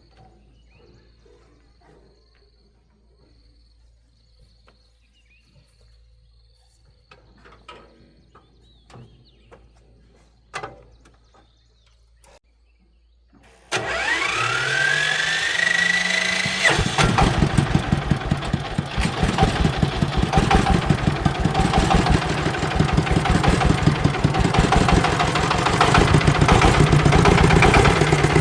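A few faint knocks and clicks, then about halfway through an electric starter motor whines up in pitch for about three seconds. The vehicle engine catches and settles into a loud, steady, rhythmic run.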